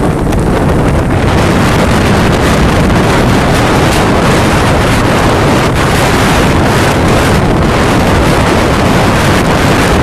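Strong wind buffeting the microphone in a steady, loud rush, over the noise of storm-driven surf.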